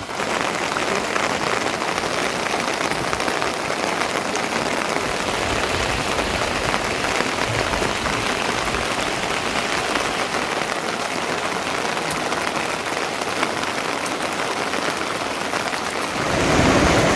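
Steady rain falling, a dense even hiss. About sixteen seconds in it grows louder and fuller.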